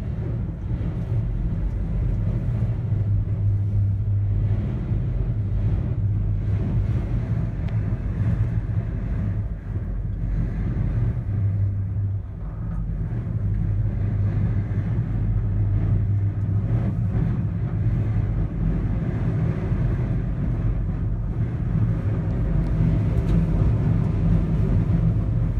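Steady low rumble inside a gondola cabin running down its cable in high wind, with a couple of brief dips.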